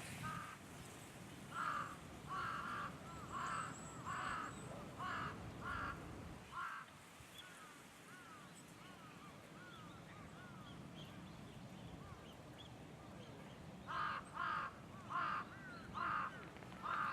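A bird giving repeated short, harsh calls: a run of about eight, a pause of several seconds with only faint thin chirping notes, then another run of about six near the end.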